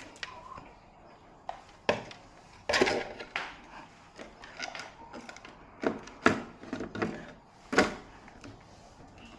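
Irregular knocks, clicks and clatter of hard objects being handled, with the loudest knocks about two, three, six and eight seconds in.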